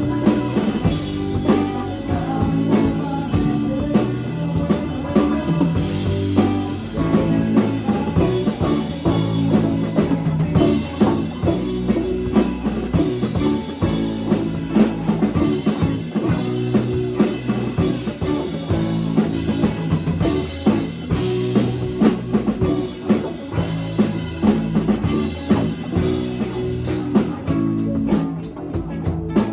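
Live band playing, with drum kit to the fore over guitar and a bass line. Near the end, quick regular ticks come through in the treble.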